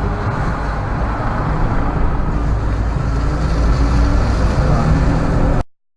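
Steady engine and road noise of a car being driven, a low rumble. It cuts off suddenly near the end.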